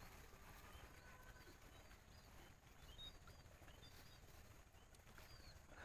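Near silence: faint outdoor ambience with scattered faint, short chirps of small animals.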